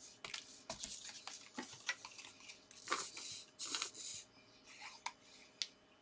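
Paper and card being handled on a craft table: a run of rustles, crinkles and small taps and clicks, busiest in the first two-thirds, with a sharp click near the end.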